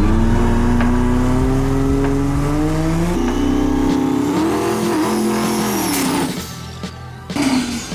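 Diesel dragster's engine running hard, its pitch climbing steadily, then falling away and dropping off about six seconds in. Music plays underneath.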